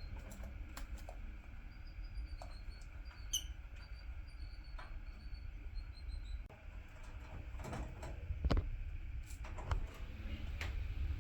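A small caged pet bird making faint, short, high chirps, with scattered sharp clicks and taps over a low steady hum.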